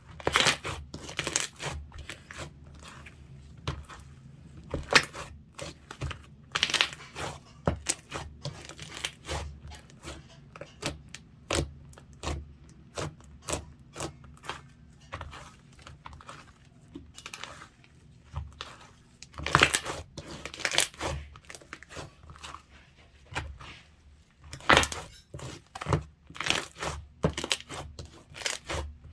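Slime being squeezed, stretched and pressed by hand, giving irregular crackling, popping and crunching sounds, with louder clusters about a third and two-thirds of the way through.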